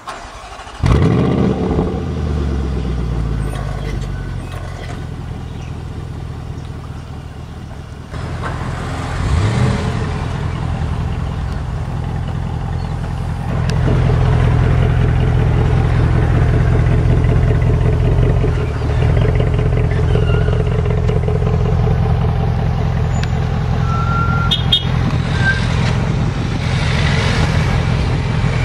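Range Rover SVR's 5.0-litre V8 revs sharply about a second in, settles to a steady idle, gives another short rev near ten seconds in, then idles louder from about fourteen seconds, heard close to the tailpipes.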